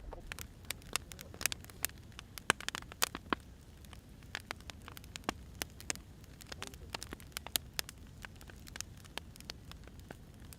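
Burning firewood crackling, with irregular sharp pops and snaps over a low steady hiss.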